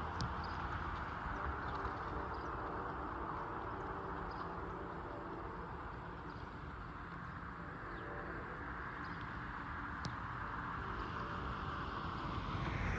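Rumble of a passing passenger train receding into the distance, slowly fading, then swelling slightly again near the end, with a couple of faint clicks.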